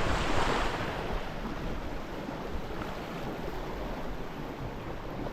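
River water rushing and splashing around an inflatable raft, loudest in the first second and then settling to a steady wash.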